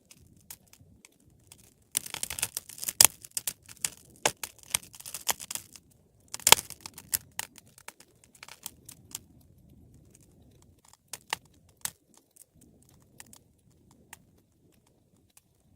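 Wood fire crackling in a fireplace. Dense runs of sharp pops and crackles start about two seconds in and again about six and a half seconds in, the loudest pops among them, then thin out to scattered single pops over a low hiss.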